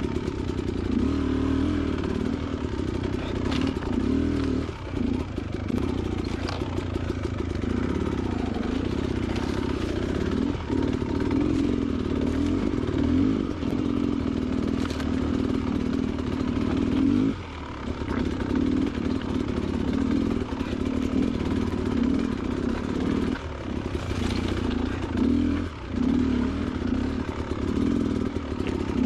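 Beta Xtrainer 300 two-stroke dirt bike engine running under changing throttle, with brief drops off the throttle several times. Occasional clatter, as over loose rock.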